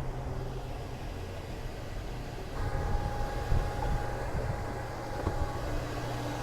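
Steady low machinery hum, joined about two and a half seconds in by a steady higher whine and a few light knocks as the deck hatch over the engine room is opened.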